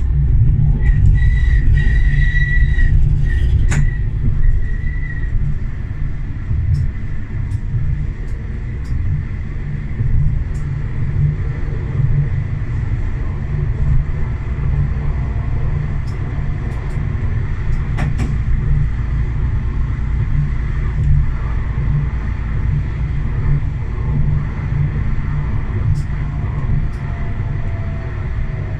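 Tram running along the rails, heard from the driver's cab: a steady low rumble, with a thin high squeal in short pieces during the first few seconds and a few sharp clicks.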